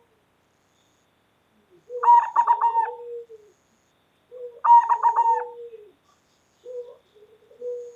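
Local-type zebra dove (perkutut) singing: two full cooing song phrases of quick rolling notes, each about a second and a half long, then softer single coos near the end.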